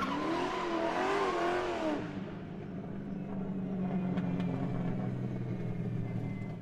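Car engine revving, its pitch wavering up and down, then settling to a steady low hum about two seconds in.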